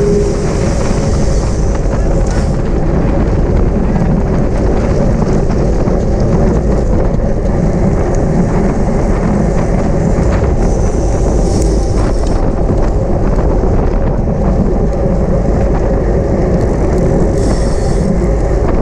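Steady wind and road rush on the microphone of a camera carried on a racing bicycle at speed.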